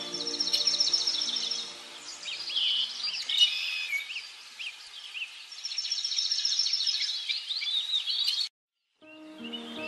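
Birds calling: two fast ticking trills and scattered high chirps and whistles between them. The sound cuts off abruptly near the end.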